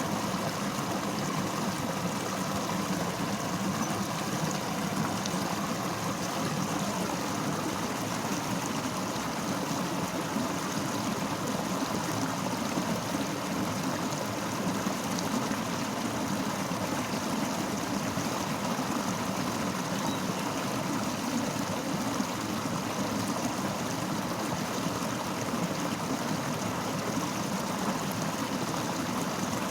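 Fast-flowing river water rushing steadily over rocks, an even, unbroken churn.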